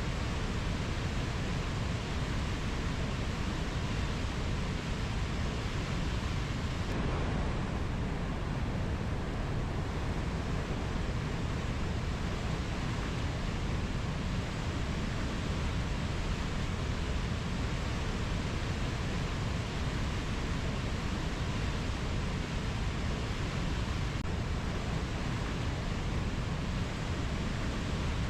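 Steady rushing noise of a rainforest ambience recording, fullest in the low end, with no bird or insect calls standing out.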